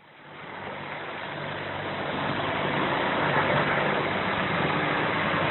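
A motor vehicle engine idling steadily, fading in over the first couple of seconds.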